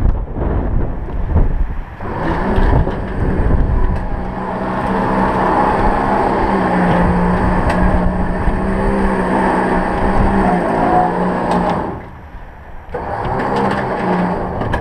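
Electric winch motor running under load as it drags a scrap gas pump up the trailer ramps: a steady whining hum that stops briefly about twelve seconds in, then starts again.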